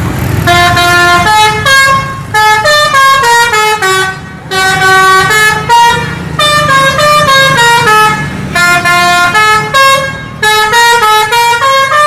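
A battery-powered toy vehicle's electronic sound chip playing a quick beeping tune of stepped notes over a steady engine-rumble sound effect.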